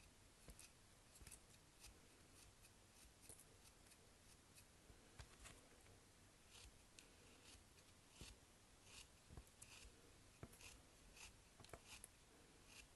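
Faint, scattered crinkles and small clicks of soap packaging being handled and opened.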